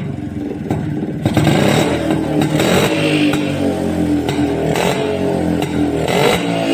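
Yezdi Classic 250's two-stroke single-cylinder engine running.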